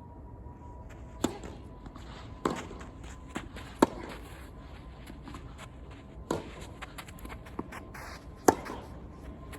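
Tennis ball being struck by rackets and bouncing on the court in a rally: a series of sharp pops a second or two apart, two of them much louder than the rest.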